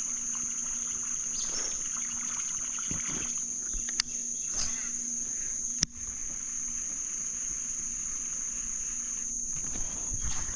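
Steady, high-pitched insect chorus, a constant shrill drone running unbroken. Two sharp clicks come about four and six seconds in, over a faint low steady hum.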